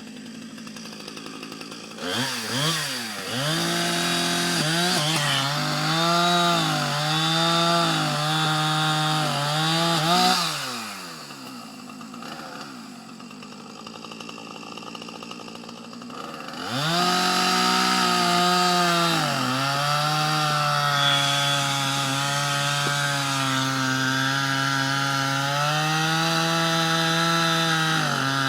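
Two-stroke chainsaw idling, then revved up and cutting through a downed tree trunk, its pitch sagging under load. It falls back to idle about ten seconds in, then revs up and cuts again until it drops back near the end.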